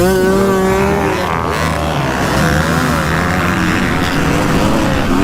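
Dirt bike engines at full throttle off a race start: the rider's own bike revs up steeply, holds high for about a second, then its pitch rises and falls through the gears, with other bikes running alongside. The rider says his bike had not been allowed to warm up.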